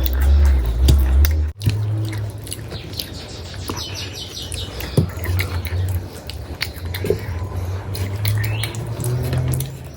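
Close-miked eating sounds: wet chewing with many small mouth clicks over a steady low rumble.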